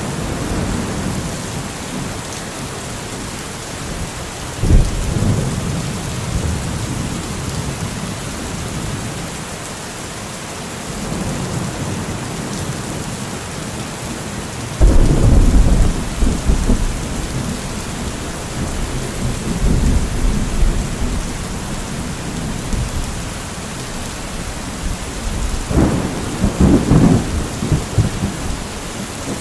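Steady heavy rain with thunder: a short crack about five seconds in, a loud rolling peal around the middle that rumbles on for several seconds, and another rumble near the end.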